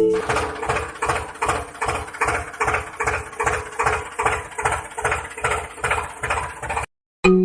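Tractor engine running with a steady rhythmic chug, about three beats a second, that cuts off suddenly near the end.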